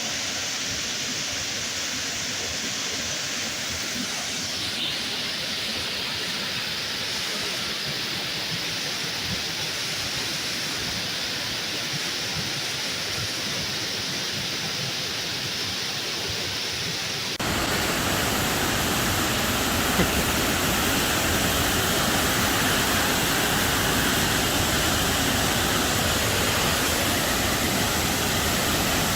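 Rushing water of a fast-flowing waterfall cascade, a steady rush that turns suddenly louder and fuller about 17 seconds in.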